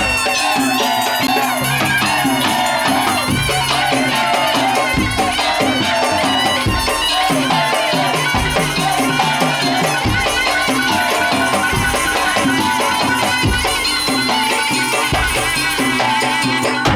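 Madurese musik daul (tong-tong) ensemble playing: a wavering melodic lead over steady, repeated drum and percussion strokes, with rattling percussion.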